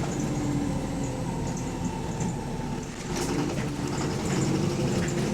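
Bus engine running under way with a loud knock, which the owner takes for a worn connecting-rod bearing (rod knock).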